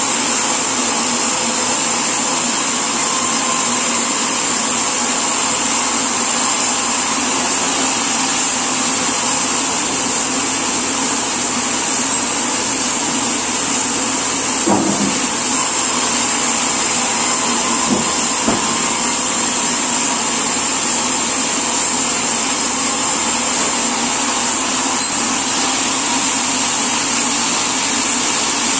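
Sawmill machinery running with a steady, loud mechanical whir and a high whine, with a couple of brief knocks about halfway through.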